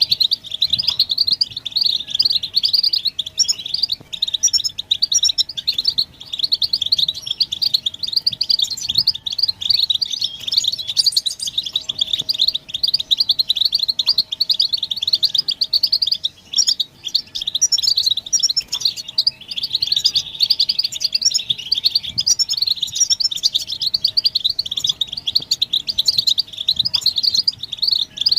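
A group of European goldfinches twittering and singing: a dense, unbroken run of quick, high chirps and trills.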